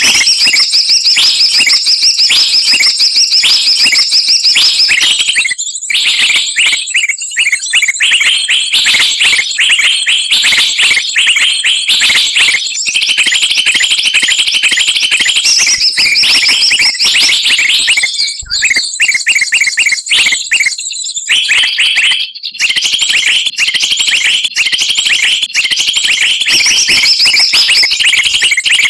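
Bird-lure recording of many small songbirds chirping and chattering at once: a loud, dense stream of rapid high-pitched notes that cuts out briefly a few times.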